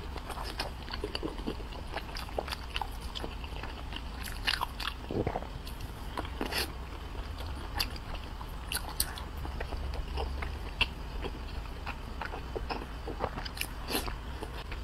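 Close-miked mouth sounds of a person chewing a soft bun filled with pork and egg: wet smacks and small clicks scattered irregularly, over a low steady hum.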